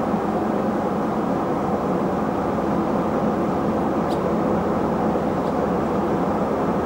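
Diesel engine of farm machinery running steadily under load.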